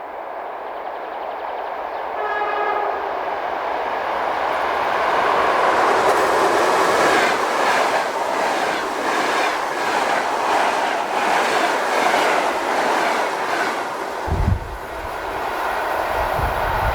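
A train sounds a short horn blast about two seconds in, then approaches and passes close by, its wheels clicking over rail joints as the noise swells. Near the end, gusts of air from the passing train hit the microphone.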